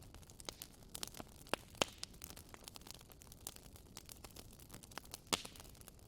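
Wood fire in a fireplace crackling: irregular sharp pops and snaps over a soft hiss, with the loudest pop about five seconds in.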